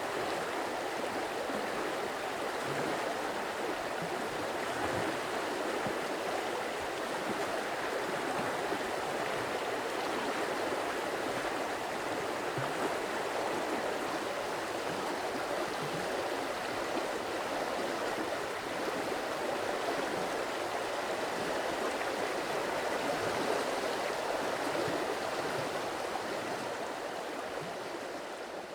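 Stream water running, a steady unbroken rush.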